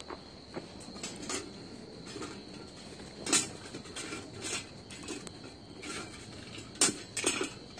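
Wood fire crackling, with sharp irregular pops and snaps, over a steady background trill of crickets.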